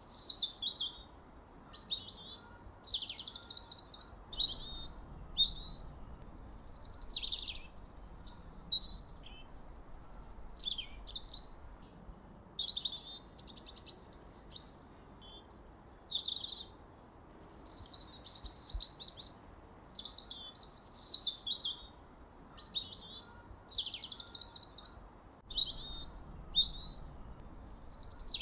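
Birds singing: a steady run of short high chirps and quick whistled phrases, one after another with brief pauses between them.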